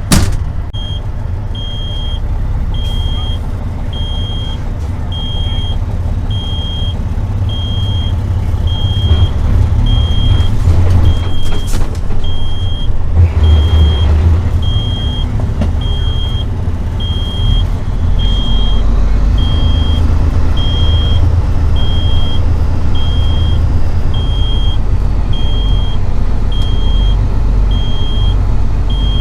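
Truck engine running with a heavy low rumble that grows louder partway through, under a single high beep repeating about once a second, like a backup alarm. A sharp click comes right at the start.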